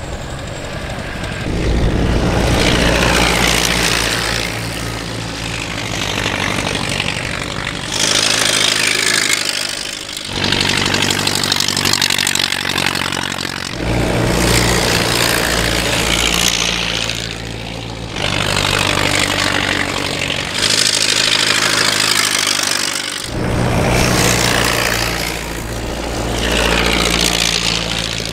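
Model T race cars' engines running as they drive past on the track, in a string of short cut clips, each one swelling and fading as a car goes by.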